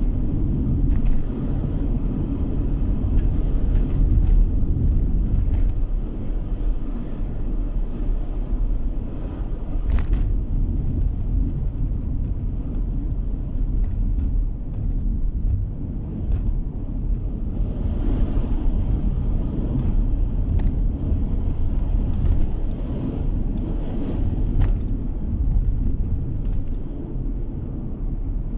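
Car driving along a road, heard from inside the cabin: a steady low rumble of tyre and engine noise, with a few light clicks or knocks, the sharpest about ten seconds in.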